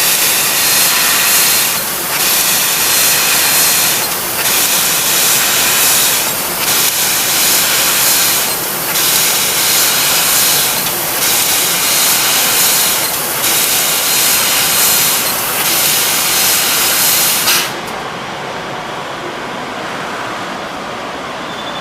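CNC laser cutting machine cutting sheet metal: a loud steady hiss of assist gas from the cutting head, dipping briefly about every two seconds. It cuts off suddenly near the end, leaving a quieter steady machine noise.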